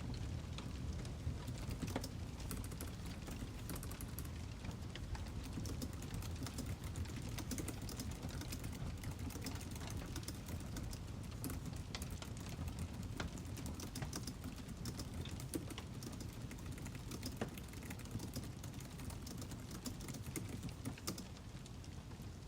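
Wood fire crackling: a steady low rumble of burning under many small sharp pops and snaps, thickest in the middle stretch.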